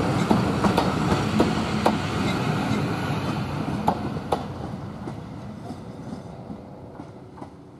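Passenger coaches of a train rolling away, the wheels clicking now and then over the rail joints. The rumble fades steadily as the last coach goes by and draws off down the line.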